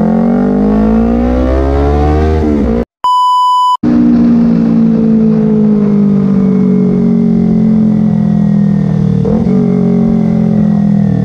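Kawasaki sport bike engine rising in pitch as the bike accelerates through a gear. About three seconds in, a steady electronic beep of about one second cuts in. The engine then runs at a steady speed, its pitch sinking slowly.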